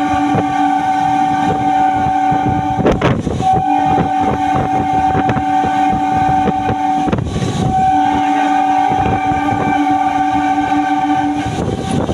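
Train horn sounding three long blasts of about three and a half seconds each, with short gaps between, each blast holding two notes together. Under the horn runs the rumble and clatter of the moving train.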